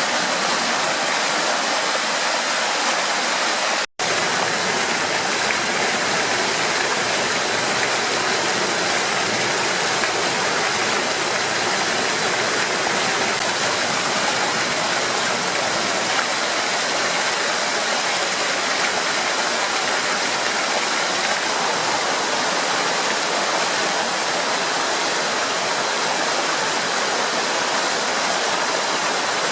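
Steady rushing water, like a stream or small waterfall, running at an even level; the sound cuts out for an instant about four seconds in.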